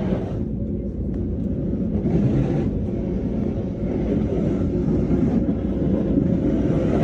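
Steady low rumble of a parked aircraft with a constant hum, and patches of hiss that come and go.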